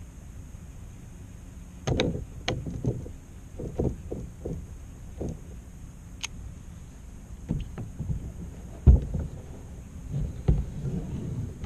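Handling noises in a fishing kayak: irregular knocks and clunks of gear against the hull, the loudest a sharp thump about nine seconds in.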